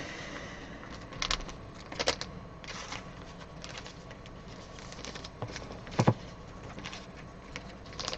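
Trading cards and their plastic sleeves being handled and sorted: scattered soft rustles and clicks, the loudest about six seconds in.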